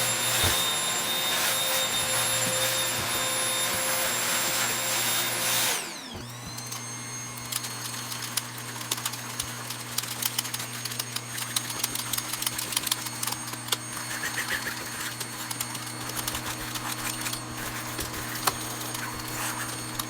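Vacuum cleaner running loudly with a steady whine. About six seconds in, the motor winds down to a quieter, lower setting and keeps running, with frequent small clicks and rattles as debris is picked up.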